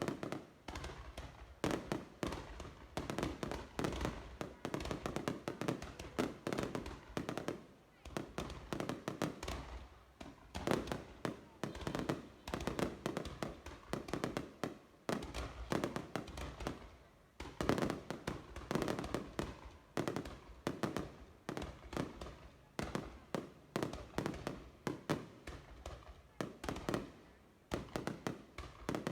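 Fireworks bursting in a dense, continuous barrage: rapid bangs and crackles, several a second, with only brief dips.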